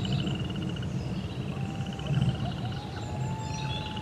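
Outdoor nature ambience: a low rumble under a rapid, high trill and scattered bird chirps. A faint, long wolf howl starts about one and a half seconds in.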